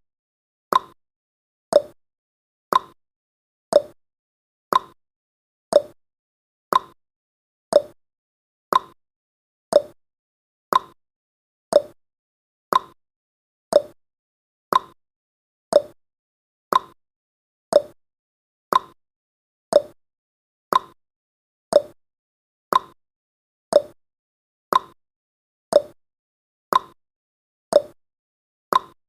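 Clock tick-tock sound effect marking each second of a countdown timer: one short click a second, alternating higher and lower in pitch.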